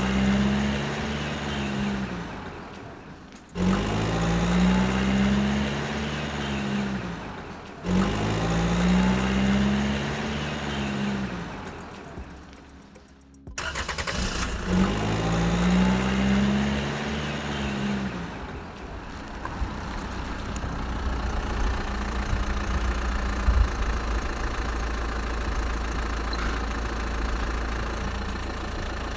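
An engine revving up and easing off in four short swells with brief breaks between them, then settling into a steady low idle for the rest of the time.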